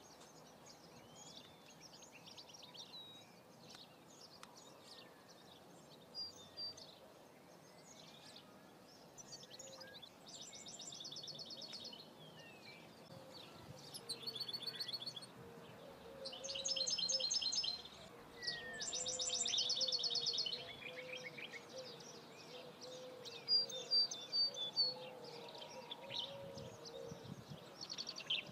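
Birds chirping and singing, with several rapid trills in the middle and a run of sharp short chirps near the end.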